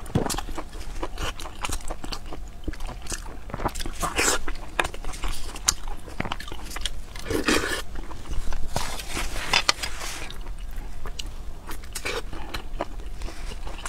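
Close-miked wet chewing and lip-smacking of someone eating a saucy braised dish of fried tofu, meatballs and rice, full of quick mouth clicks, with a few longer, louder wet bursts.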